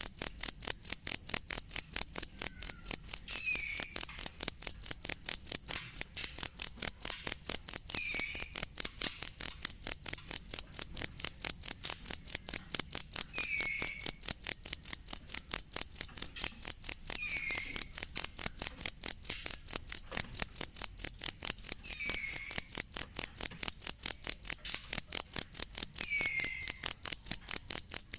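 Cricket chirping steadily, a loud, even, high-pitched pulsing of about four chirps a second. A faint short falling note sounds every four or five seconds.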